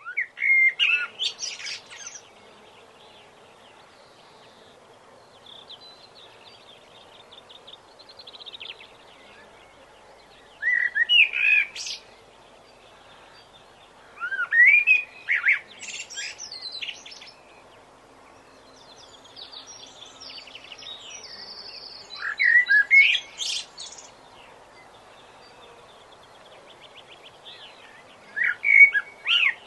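Songbirds singing: five bursts of chirps and quick rising and falling notes every several seconds, with fainter rapid trills between them, over a steady low background hiss.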